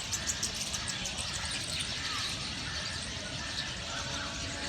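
Birds chirping and calling outdoors in the morning: many short, high chirps with a few warbled calls mixed in, over a steady low rumble.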